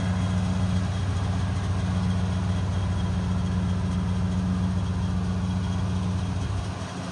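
1964 Oldsmobile Dynamic 88's Super Rocket 394 V8 idling with a steady, lumpy low rumble, a little quieter near the end.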